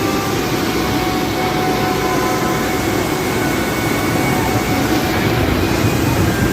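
Steady, loud rumbling noise of road traffic.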